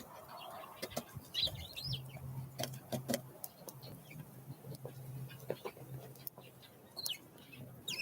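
Small wild birds giving brief high chirps and call notes, with scattered sharp clicks and taps between them. A steady low hum comes in about two seconds in.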